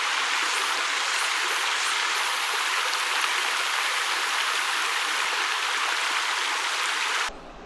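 Mountain stream water rushing over rocks, a steady loud hiss. It cuts off suddenly near the end, giving way to a quieter low rumble.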